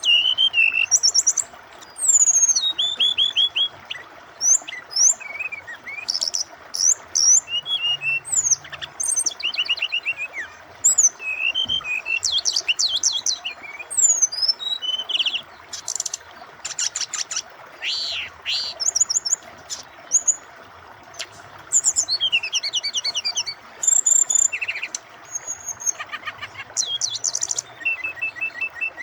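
Brown-chested jungle flycatcher (sikatan rimba dada coklat) singing a varied string of quick, high whistled phrases and trills with short pauses between them, over a steady sound of flowing water.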